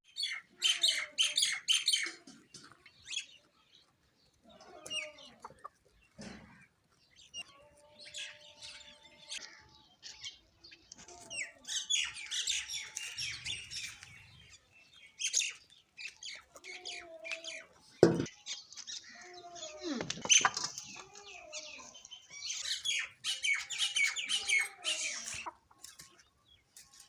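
Sparrows chirping in busy bursts of rapid high chirps, with quieter spells between, mixed with some lower, drawn-out bird calls. A single sharp tap stands out about two-thirds of the way through.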